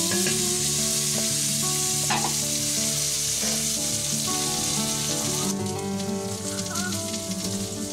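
Potato pieces sizzling as they fry in hot oil in an iron karahi, with a few scrapes of a metal spatula stirring them. The sizzle cuts off abruptly about two-thirds of the way in.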